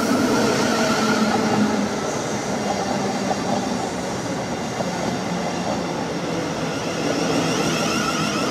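South Western Railway electric multiple unit running past along the station platform: a steady rumble of wheels on rail with a high whine held throughout.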